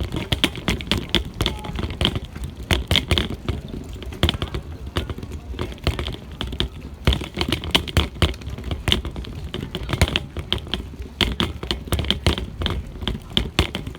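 Bicycle rattling, with dense, irregular clicks.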